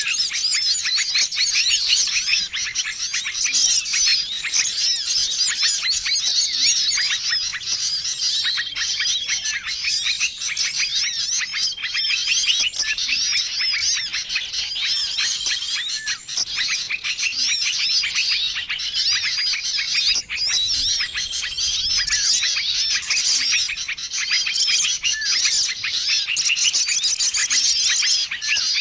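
Dense, continuous chorus of many small songbirds chirping and twittering over one another: a mixed bird-lure recording, with one short call repeating every few seconds.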